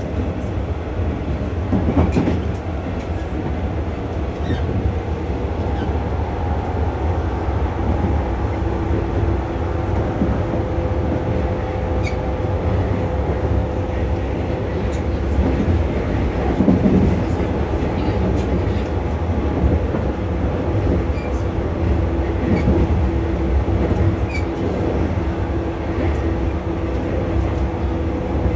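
Onboard running sound of a JR West 115 series resistor-controlled electric train: a steady low rumble of wheels on rail and a steady traction-motor hum, with scattered clicks from the track.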